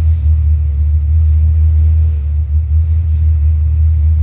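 349 Ford small-block V8 stroker idling steadily with a loud, deep rumble while still cold. The idle air control valve is held wide open to give it extra air as it warms up.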